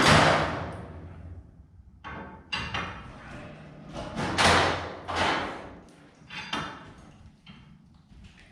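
Garage door torsion spring being wound another half turn with winding bars: several sharp metal clanks, each ringing out for up to a second. The spring is being tightened because the door goes up but will not stay up.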